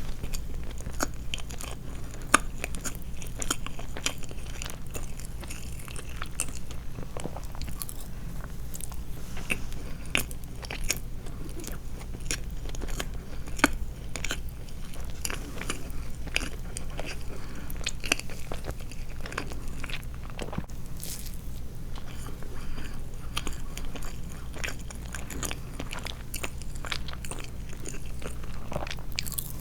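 Close-miked eating sounds: a person chewing and biting soft sweets, with many small wet clicks and smacks of the mouth coming irregularly throughout, over a steady low hum.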